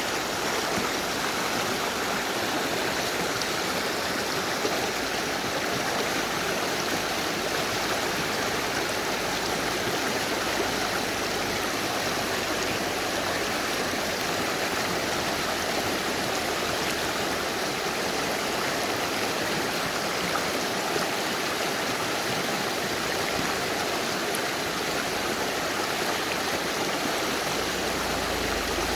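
Mountain river rushing over rocks, a steady, unbroken noise of flowing water.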